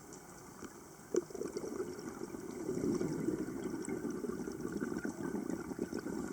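Water sound, with a sharp click about a second in after which a rough, crackly noise grows louder.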